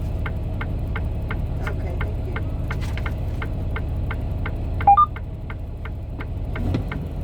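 Semi-truck engine idling with a steady low hum, under a regular ticking about two and a half times a second. About five seconds in, two short electronic beeps sound, the second higher than the first.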